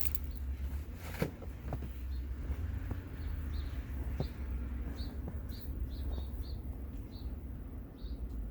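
A small bird chirping, short high notes repeated a dozen or so times at uneven intervals, over a steady low rumble.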